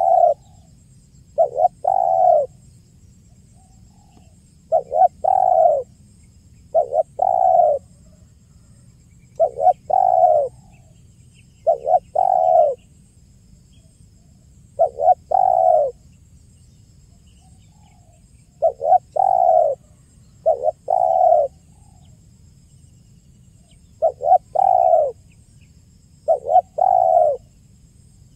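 Spotted dove (tekukur) cooing over and over. Each phrase is two or three short, low coos, with a phrase every two seconds or so.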